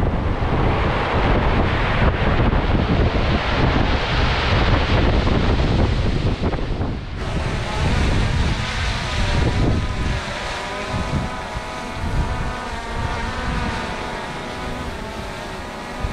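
Strong wind buffeting the microphone with a low rumble. About seven seconds in it cuts to a quieter, steadier noise with a faint steady hum.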